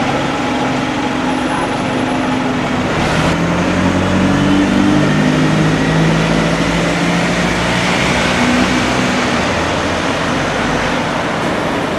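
A large road or rail vehicle's engine running amid traffic noise, its note rising about three seconds in.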